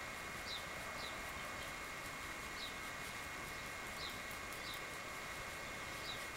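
A bird chirping: short, high chirps that drop in pitch, repeated at irregular intervals of about a second, over a steady background hiss.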